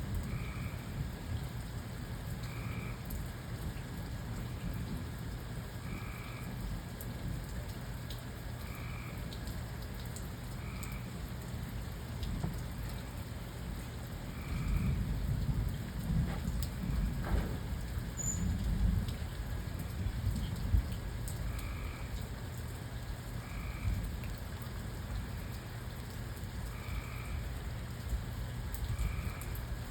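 Steady rain falling, with a low rumble of thunder swelling through the middle. A frog's short call repeats every second or two, stopping while the thunder rolls.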